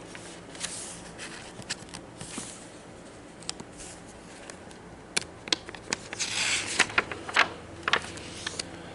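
Paper handling as a picture book's pages are turned: rustling swishes and scattered sharp clicks, busiest about six to seven seconds in.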